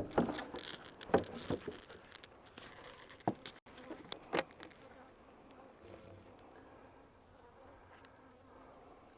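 Honeybees buzzing around an open hive, with a few sharp knocks and clicks in the first few seconds.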